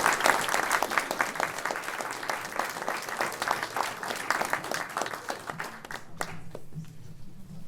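Audience applauding after a song, the clapping thinning out and dying away about six seconds in, with a few scattered claps near the end.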